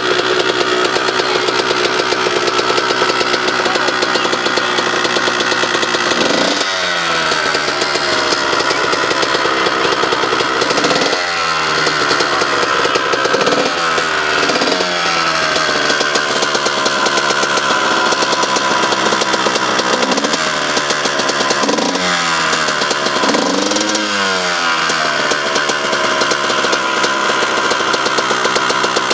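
Dirt bike engine revving hard, held at high revs with the throttle let off several times, so that the pitch falls and then climbs back up.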